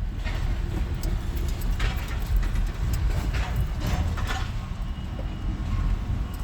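Loaded truck rolling slowly onto a scrapyard weigh scale: a steady low engine rumble with a few short rattles and clunks.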